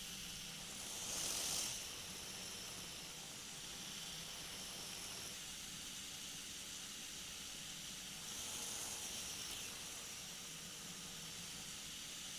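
Steady hiss of an in-flight recording from a flexwing microlight trike, with a faint steady drone of its engine underneath. The hiss swells briefly twice, about a second in and again about three-quarters of the way through.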